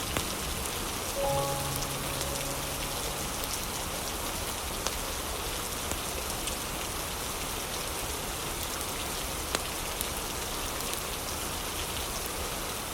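Steady rain noise with a few sharp fireplace crackles scattered through it. A few soft, held instrumental notes sound in the first few seconds, then fade out.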